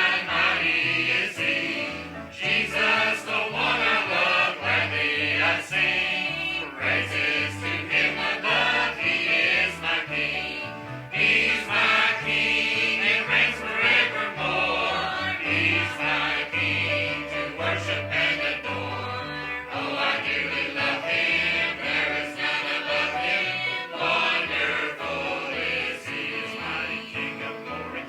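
Church choir singing with instrumental accompaniment; a bass line moves in steady steps underneath the voices.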